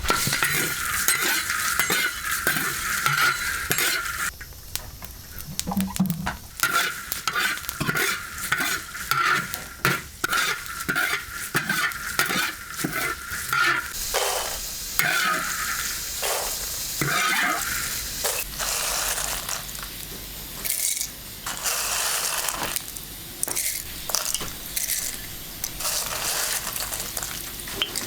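Food frying in a pan while being stirred: a sizzling hiss with many quick scrapes and knocks of a utensil against the pan. The steady part of the sizzle eases off about halfway through.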